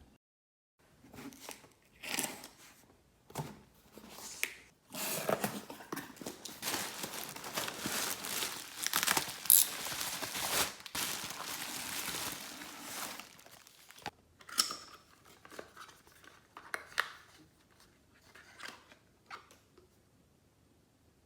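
Crinkling and tearing of thin packaging, like plastic or paper being handled and torn open: a few short rustles, then about eight seconds of dense crackling, then scattered crinkles that die away.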